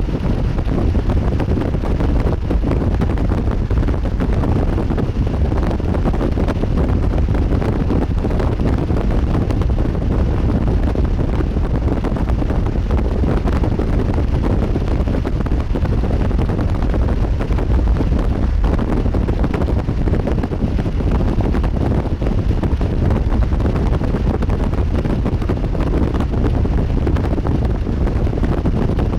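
Strong wind buffeting the microphone: a steady, loud rush with most of its weight in a low rumble.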